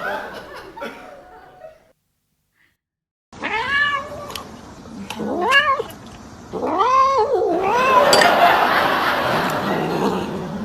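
A domestic cat giving three drawn-out yowling meows, each rising and then falling in pitch, followed by a couple of seconds of harsh, noisy sound.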